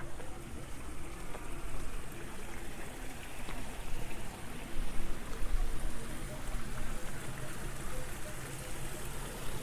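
Water running steadily in a rice-terrace irrigation channel, a continuous trickling rush.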